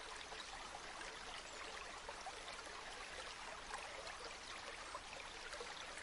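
Gently flowing river water, a steady soft rush with small splashy flecks.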